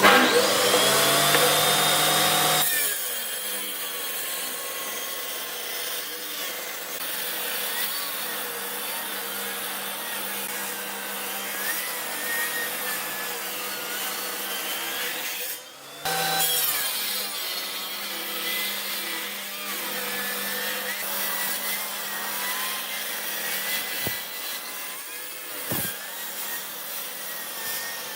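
A power tool working old wooden boards with a steady rasping, sawing-like noise over a constant motor hum. The tool rises in pitch during the first couple of seconds, then runs on evenly, dropping out briefly about two-thirds of the way through before carrying on.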